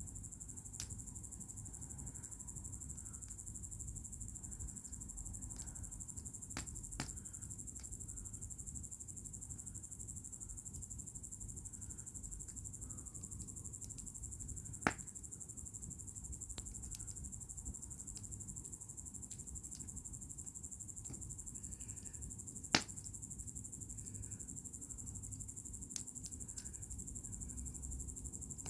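Crickets chirring steadily, with a few sharp pops from burning wood in a fire bowl. The loudest pops come about halfway and three-quarters through.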